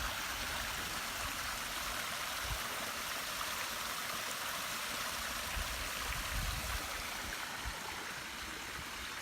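Steady rushing water sound, as of rain falling or a brook running, with a few soft low thumps.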